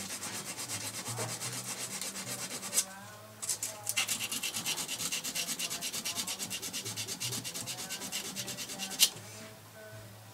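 Hand sanding with coarse 80-grit sandpaper: fast, even back-and-forth scraping strokes, about five a second, working down a high spot. A sharp knock marks a short pause about three seconds in, and another comes as the sanding stops about nine seconds in.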